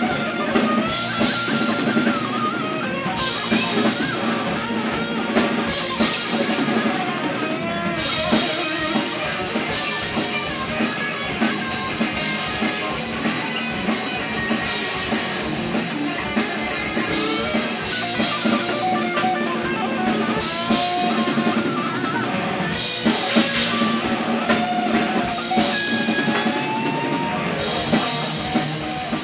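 Live rock band playing an instrumental passage: electric guitars over a drum kit with steady kick and snare hits, with no singing.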